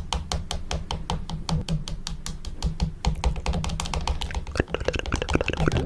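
Fingernails tapping rapidly on a camera, ASMR-style, several sharp clicking taps a second.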